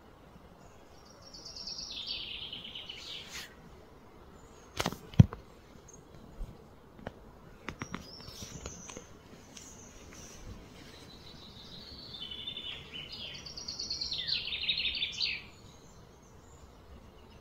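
Outdoor birdsong: a bird sings two trilled phrases that slide downward, one near the start and a longer one about twelve seconds in. A couple of sharp knocks about five seconds in are the loudest sounds, followed by a few faint clicks.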